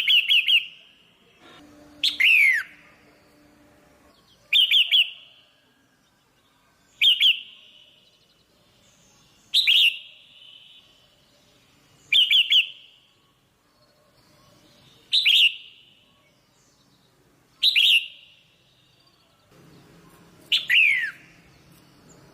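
Female red-whiskered bulbul calling: a short chirping burst of two or three quick notes about every two and a half seconds, some of the calls sliding down in pitch.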